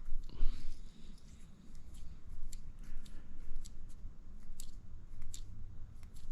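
Light, scattered clicks and small scrapes of plastic RC buggy shock parts being handled and screwed together, as a rod end is threaded onto a shock shaft.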